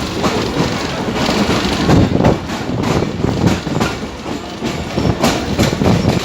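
Train running along the track, with wheels clattering and knocking over the rails in an irregular patter over a steady rumble.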